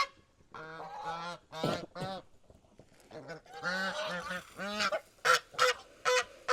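Backyard geese honking: several drawn-out honks, then a run of short, sharp honks about once every third of a second near the end.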